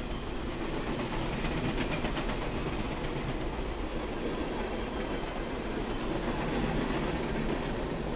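A mixed freight train's boxcars and covered hoppers rolling past, their steel wheels running steadily on the rails, with a run of clicks from the wheels over the track about one to three seconds in.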